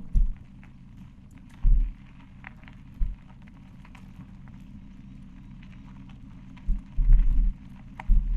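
Wind buffeting and jolts picked up by a bike-mounted action camera's microphone while riding a rough track. A steady low rumble is broken by loud, dull low thuds, several of them bunched near the end, with faint small clicks from the track surface.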